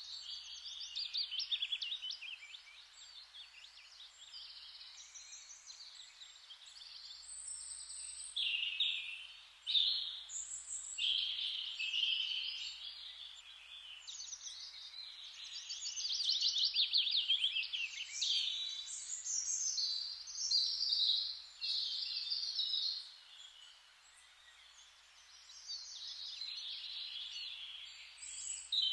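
Several songbirds singing at once in a dawn-chorus style, with fast trills and repeated high phrases overlapping, over a faint steady background hiss.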